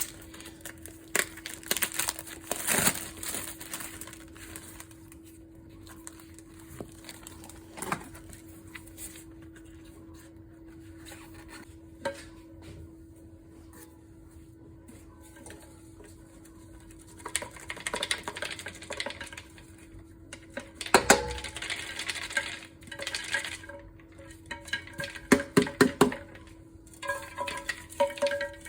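Dishes being washed by hand: crockery and utensils clinking and knocking at irregular intervals, with stretches of scrubbing in the second half, over a steady faint hum.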